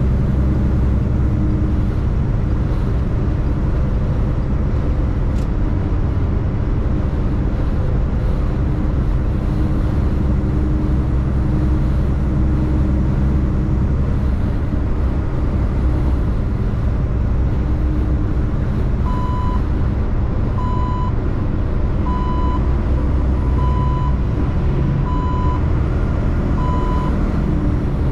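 Tractor-trailer's diesel engine running steadily on the road. From about two-thirds of the way in, six short high electronic beeps sound evenly, about one and a half seconds apart.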